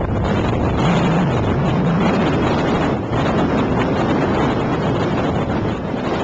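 Blizzard wind of about 60 knots blasting across the microphone: a loud, steady rush of wind noise with a rumbling low end, carrying blowing snow.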